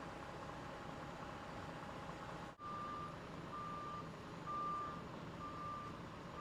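Truck engine idling, then a reversing alarm starting about two and a half seconds in, beeping about once a second over the engine idle.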